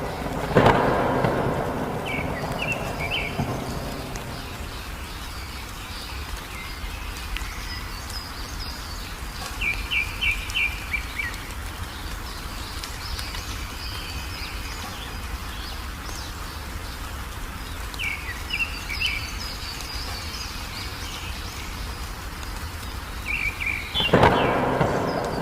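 Steady rain with a thunderclap rumbling about half a second in and another near the end, while a small bird sings short, quick phrases of chirps every several seconds.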